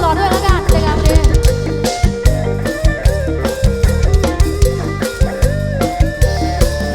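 Live band playing an instrumental passage: drum kit keeping a steady beat under a bass line and a melodic lead.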